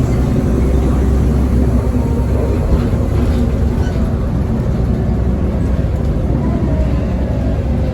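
A 2010 Nova Bus LFS Articulated city bus under way, heard from inside: its Cummins ISL diesel engine runs with a loud, steady low drone over road noise.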